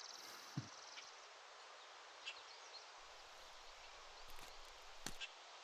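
Faint background ambience with a fast, high insect trill that stops about a second in, then a soft low thump and a few faint clicks.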